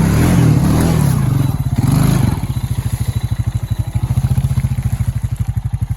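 A Honda Rancher ATV's single-cylinder engine running close by. It revs up for the first couple of seconds, then drops back to a steady, even idle chug.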